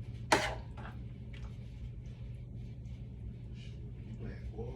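A single sharp clack of a utensil against a dish or pot, with a few faint ticks after it, over a steady low hum.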